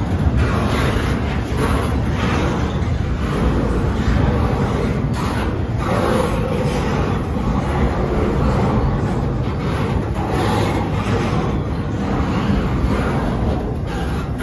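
Double-stack intermodal container well cars of a Norfolk Southern freight train rolling past close by, a steady rumble and clatter of steel wheels on the rails.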